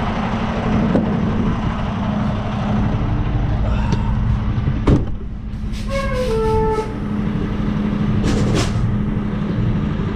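Semi truck's diesel engine running under load as the tractor pulls forward against the coupled trailer in a tug test of the fifth-wheel hitch. A single sharp clunk about five seconds in, and a brief hiss about eight seconds in.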